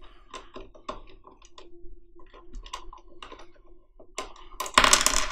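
Irregular light clicks and taps of metal washers and nuts being fitted onto threaded rods and finger-tightened on a 3D-printer frame, with a louder burst of handling noise near the end.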